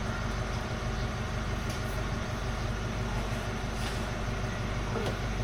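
Steady low motor hum with a few faint, brief clicks.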